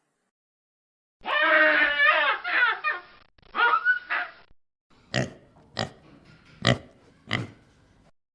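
Pig calls: two wavering, squealing calls, then four short grunts in a row.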